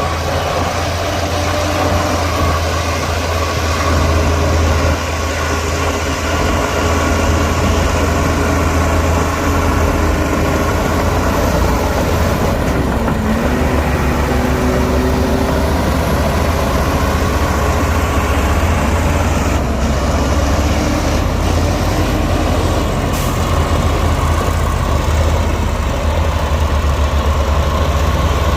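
Heavy diesel earthmoving machinery running steadily under load, with a deep, even engine rumble. About halfway through, the engine note dips briefly and then recovers.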